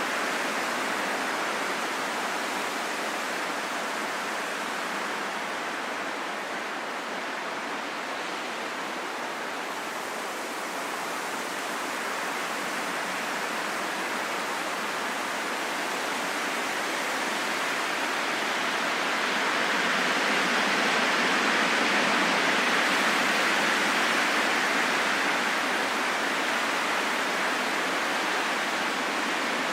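Wind blowing as a steady rushing hiss with no whistling tone, easing slightly about a third of the way through and swelling to its loudest about two-thirds through.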